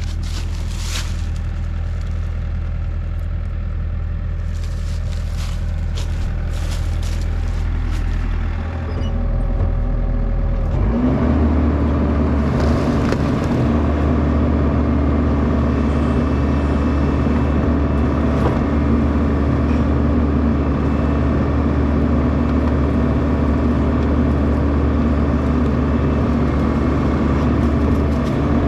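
Bobcat E42 compact excavator's diesel engine running, stepping up to a higher, steady speed about eleven seconds in as the hydraulics are worked, with a steady whine over it. A few scattered knocks and rattles come in the first several seconds.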